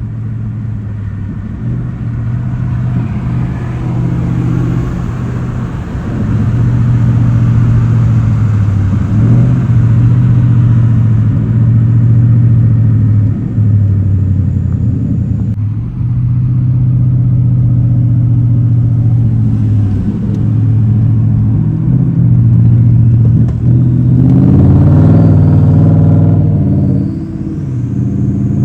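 Car engine running while driving, holding a steady drone with several brief drops in level and one rise in pitch near the end before it falls away.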